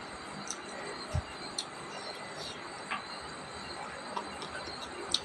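Close-miked eating by hand of rice and shredded bamboo-shoot salad: scattered short, sharp chewing and mouth clicks over a steady high background hum, with one dull low thump about a second in.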